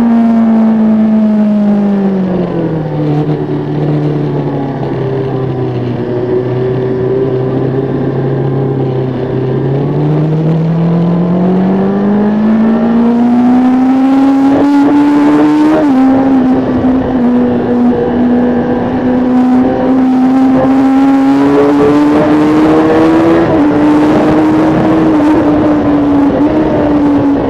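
Kawasaki ZX-10R's 998 cc inline-four engine heard from on board at speed: revs fall off over the first few seconds, hold low, then climb steadily to a sudden drop in pitch about sixteen seconds in, an upshift, and run high after that with a smaller step later on.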